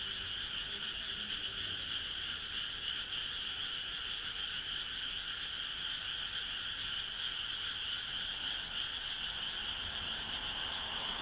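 A frog chorus: many frogs calling at once in a steady, dense, unbroken wash of high calls.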